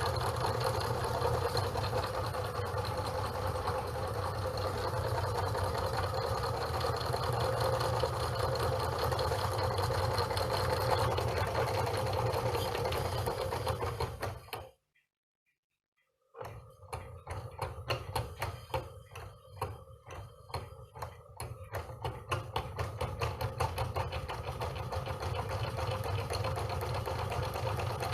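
Small candle-heated Stirling engine with diaphragm pistons running, a rapid, steady mechanical clatter. A little past halfway it cuts to complete silence for about a second and a half. It then returns as sharper, separate ticks that gradually even out into the steady run again.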